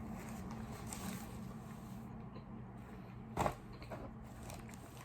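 A person eating quietly: faint chewing and handling of the food. One sharp knock about three and a half seconds in, over a low steady hum.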